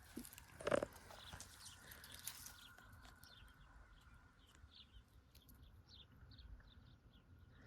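Faint outdoor ambience of small animals: a run of short high chirps over a faint steady high hum, with one short louder call about a second in.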